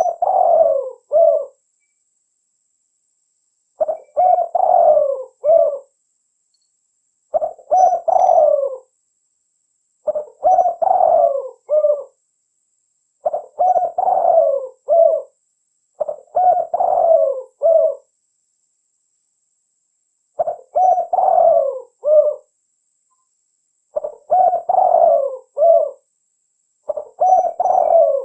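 Spotted dove cooing vigorously. It repeats the same phrase of several notes, about every three to four seconds, with silence between the phrases.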